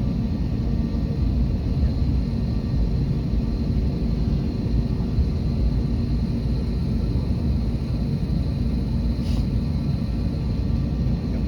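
Steady low rumble of an Airbus A321neo's jet engines, even in level throughout, with a few faint steady tones over it.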